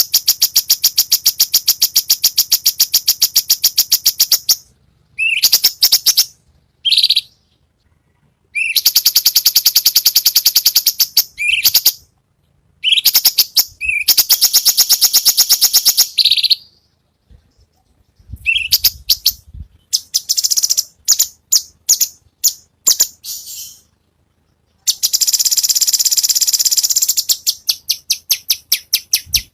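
Cucak cungkok bird singing its harsh 'besetan' song: phrases of a few seconds each, made of very rapid, high, rattling notes, with short gaps between them. In the middle comes a run of separate, clipped notes before the rattling resumes.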